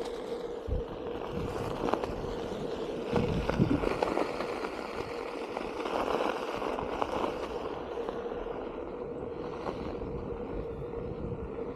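Onewheel GT electric hub motor whining at a steady pitch while riding, over continuous tyre rolling and scraping noise.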